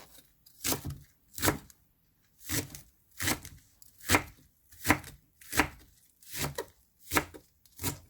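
Knife chopping the white parts of green onions (jjokpa) at a slow, steady pace, about ten cuts, one every three-quarters of a second or so.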